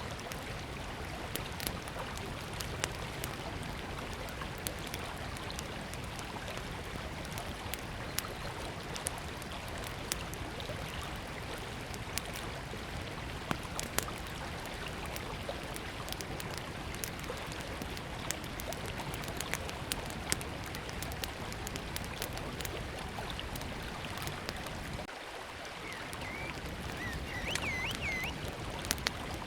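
Small wood campfire crackling with scattered sharp pops over the steady rush of a river. A bird chirps a few times near the end.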